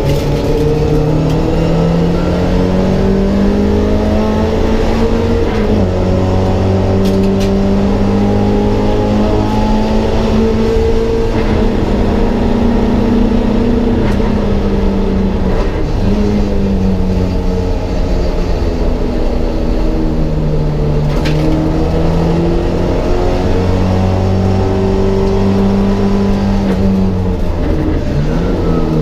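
Mk1 Ford Escort race car's engine heard from inside the stripped cabin, pulling hard on track with the revs repeatedly climbing and dropping through gear changes and corners.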